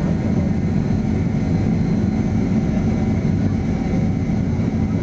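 Steady drone of a Boeing 767 in flight as heard inside the passenger cabin: engine and airflow noise, strongest in the low range, with faint steady high whines above it.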